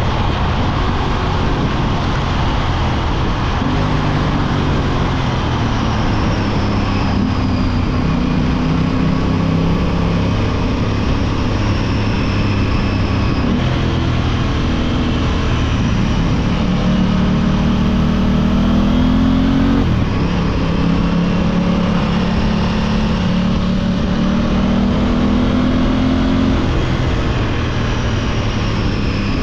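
Aprilia 660 parallel-twin motorcycle engine being revved, its pitch climbing over several seconds and then dropping back, about four times, over a heavy rushing noise.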